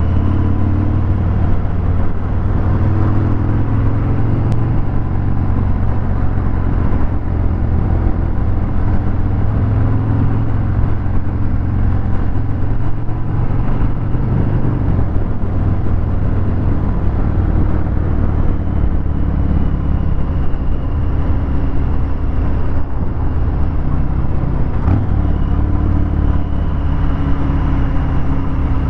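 Harley-Davidson Fat Bob 114's Milwaukee-Eight 114 V-twin running through a Vance & Hines Hi-Output 2-into-1 exhaust, its pitch rising and falling gently with the throttle.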